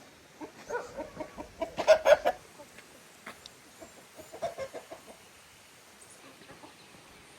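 Chickens clucking: a quick run of clucks that peaks about two seconds in, then a shorter run of clucks around four and a half seconds.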